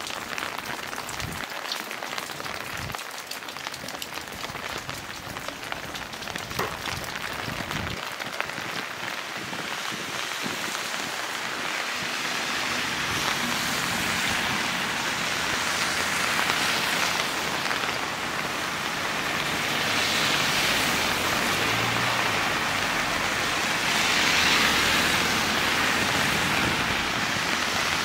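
Steady rain falling, with many sharp drop ticks in the first half; the hiss grows louder from about halfway, with a low rumble beneath it.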